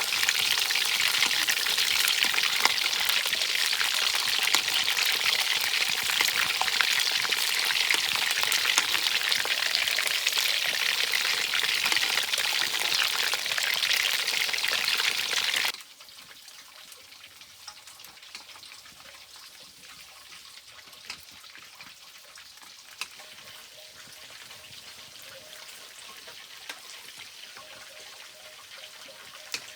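Fish frying in hot oil in a pan: a loud, dense crackling sizzle that stops abruptly a little past halfway, leaving a faint hiss with a few small ticks.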